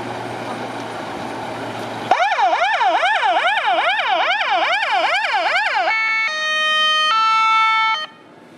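A fire truck's siren: a vehicle engine runs, then about two seconds in the siren starts as a fast yelp, rising and falling about two and a half times a second. Near six seconds it switches to a two-tone sound, changing pitch about once a second, and cuts off suddenly near the end.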